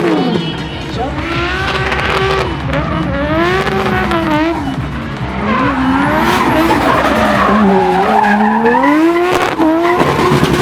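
Nissan R33 Skyline drift car and its tandem rival sliding under power: the engines rev up and down repeatedly as the throttle is worked, over continuous tyre squeal.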